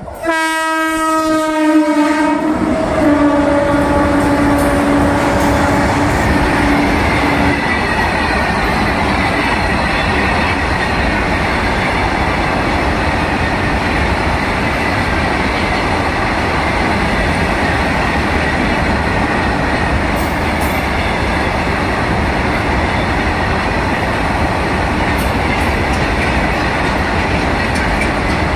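WAG-9 electric locomotive sounding its horn loudly for about two seconds as it comes in, the note then dropping slightly in pitch and fading over the next few seconds. A long freight train's wagons then roll past with a steady rumble and wheel clatter over the rail joints.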